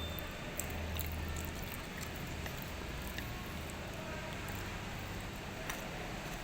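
Eating sounds of a mukbang: chewing, with a few faint light clicks scattered through, over a steady low hum.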